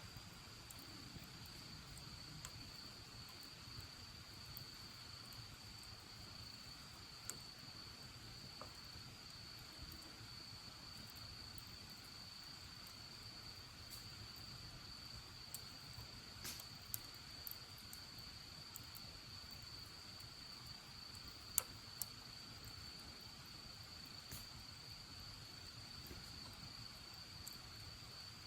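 Faint, steady high-pitched chirring of crickets, with scattered sharp pops and crackles from a wood bonfire; the loudest pops come about three quarters of the way through.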